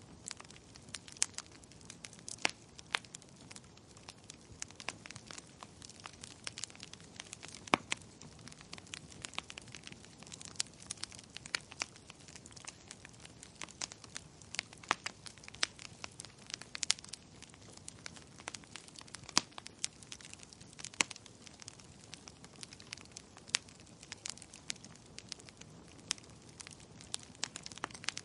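Wood fire crackling: a steady run of sharp, irregular pops and snaps over a soft hiss.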